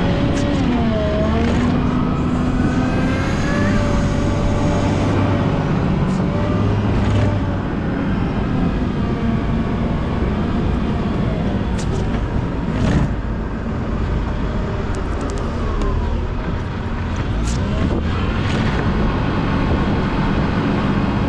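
Volvo L90H wheel loader's diesel engine working steadily while plowing snow, its pitch rising and falling as the revs change, with a sharp knock about halfway through.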